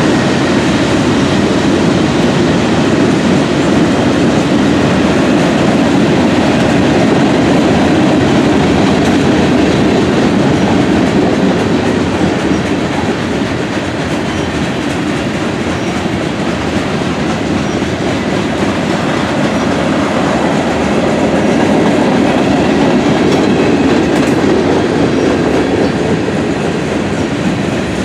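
Freight train passing close by: the trailing diesel locomotives go by at the start, then a long string of covered hoppers and tank cars roll past, with the steady noise of steel wheels on rail.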